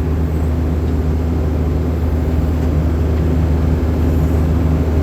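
Backhoe's diesel engine running at a steady speed from the operator's seat, a low, even drone that holds unchanged while the arm is worked.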